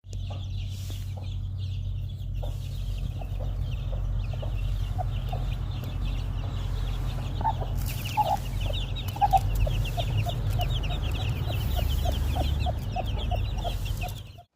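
Malay game broody hen clucking in a steady run of short low clucks, about two to three a second, while her chicks peep continuously at a high pitch, the peeping growing denser about halfway through. A steady low hum runs underneath.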